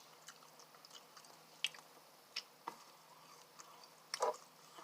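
Close-up mouth sounds of a person chewing a chicken nugget dipped in ranch: soft wet chewing with a few scattered clicks and a louder mouth sound about four seconds in.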